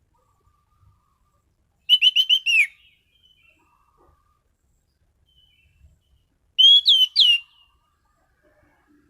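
Anis cendana (orange-banded thrush) singing two short bursts of sharp whistled notes with quiet between: a quick run of about five notes about two seconds in, then three loud swooping notes near the end.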